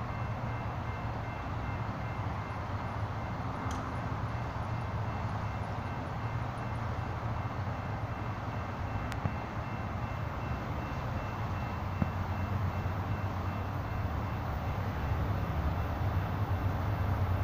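Low, steady rumble of an approaching Amtrak diesel passenger train, growing louder toward the end.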